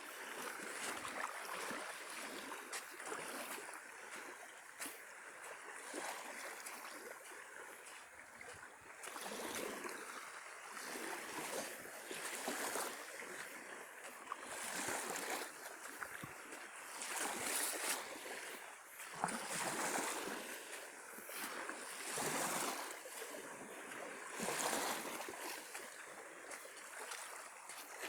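Small sea waves washing onto a beach, the hiss of surf rising and falling every few seconds.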